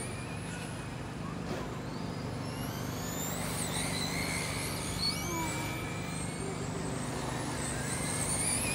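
Electric RC cars running on the track, their motors whining in overlapping high-pitched glides that rise and fall as they speed up and slow down, over a steady low hum.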